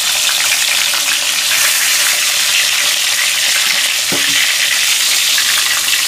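Halved eggplants shallow-frying in hot mustard oil, a steady, loud crackling sizzle. A brief soft knock about four seconds in.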